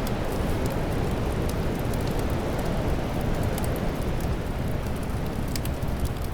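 Fireplace crackling, with scattered sharp pops and snaps over a steady low rush of wind.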